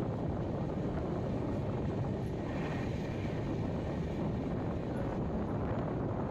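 Express passenger train running, heard from on board: a steady low rumble of the wheels on the track.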